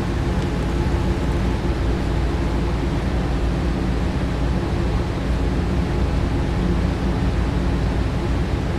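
HO scale slot cars and model trains running on the layout: a steady whirring of small electric motors and wheels on track over a low hum.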